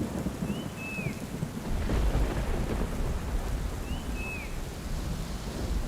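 Monsoon rain falling steadily with a low roll of thunder that swells from about two seconds in. A bird gives a short whistled call twice, the second note dropping at the end.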